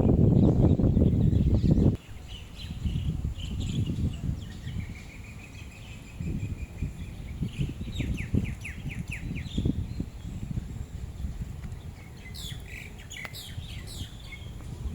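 Several birds chirping and calling, with a quick run of about six falling notes a little past halfway and a burst of chirps near the end. A low rumbling noise runs underneath, heavy for the first two seconds before dropping off sharply.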